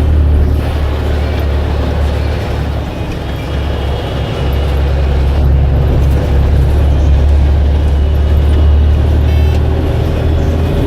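Blue Bird All American bus's diesel engine running with a steady low drone, easing off slightly about three seconds in and picking up again a couple of seconds later.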